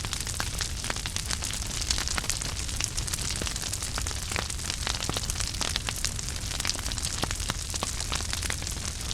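Wood fire burning in a fireplace: a steady hiss of flames with frequent irregular crackles and sharp pops, over a low rumble.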